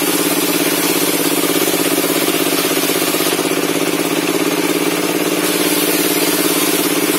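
Log-ripping circular saw table running steadily, with no cut in progress and no change in speed.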